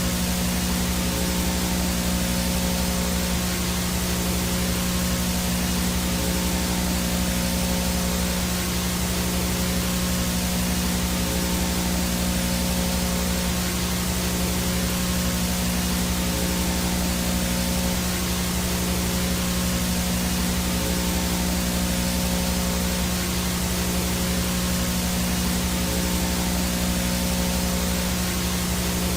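VHS no-signal static: a steady hiss over a constant low electrical hum with fainter buzzing overtones, unchanging throughout.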